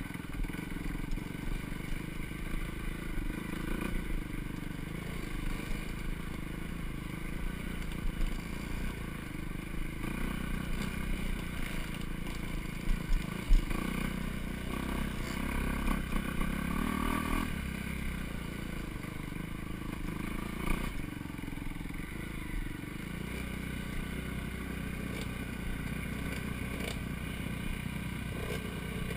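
Four-stroke dirt bike engine running on a trail ride, with scraping and clattering from the ride; a few sharp knocks about halfway through, the loudest of them near the middle.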